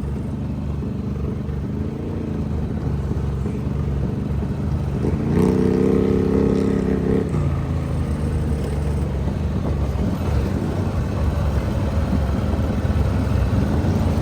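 ATV engine running steadily while riding, with a stretch of higher revs held for about two seconds near the middle before easing back.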